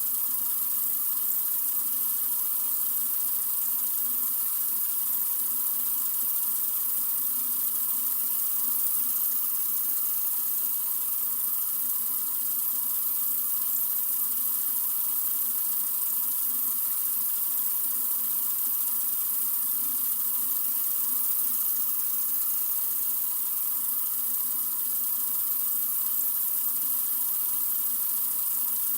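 Sink faucet running in a steady, unbroken stream: an even, bright hiss.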